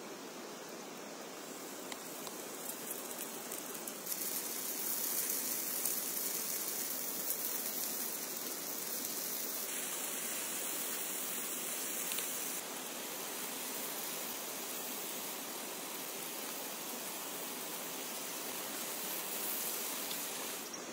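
Steady heavy rain, an even hiss that changes abruptly in tone a few times.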